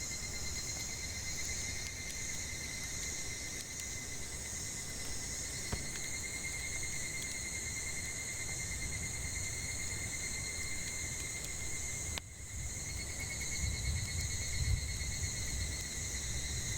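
Cicadas droning steadily in chorus, with the occasional faint crackle of a wood fire.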